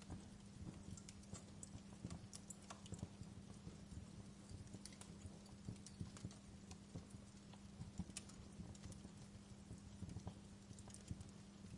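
Wood fire crackling: irregular small pops and snaps from burning wood, a few louder ones standing out, over a steady low hum.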